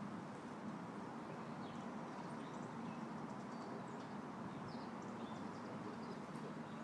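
Faint outdoor ambience: a steady low rushing background with small birds chirping, many short high chirps scattered throughout.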